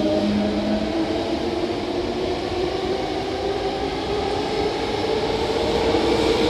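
Hankyu 8000 series electric train pulling out and accelerating: its traction motors and inverter give a whine of several tones that slowly rise in pitch, over the rumble of wheels on rails.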